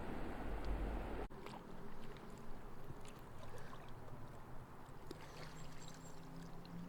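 Quiet ambience aboard a moored boat: water gurgling and trickling along the hull over a low steady hum, with scattered small ticks. The low rumble drops away abruptly about a second in.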